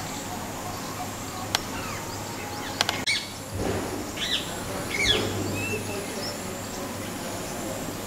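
Birds calling outdoors: a few short chirps about halfway through, after two or three sharp clicks, over a steady background hiss.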